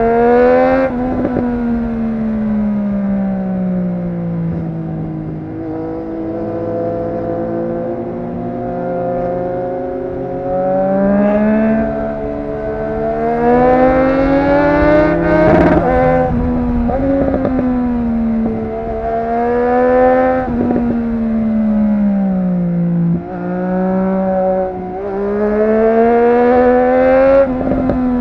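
Triumph Street Triple RS 765 cc inline-three engine breathing through a Yoshimura exhaust, under way. Its pitch repeatedly climbs under throttle and drops back off on gear changes and roll-offs, several times over.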